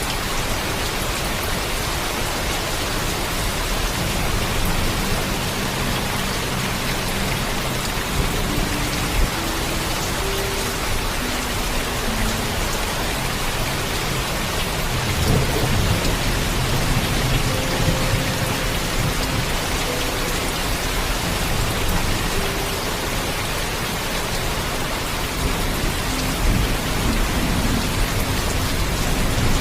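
Heavy rain falling steadily, with low thunder rumbling several times: in long swells in the first half, a stronger roll about halfway through, and again near the end.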